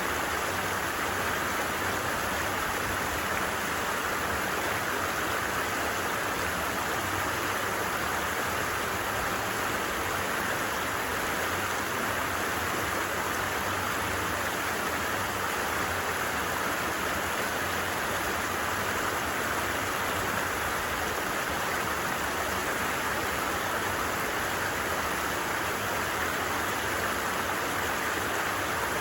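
Stream water rushing steadily, an even, unbroken rush with no birdsong or single drops standing out.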